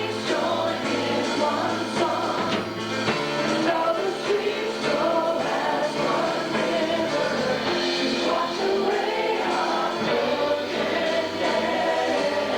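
Worship song in a church service: a group of voices singing over a band accompaniment.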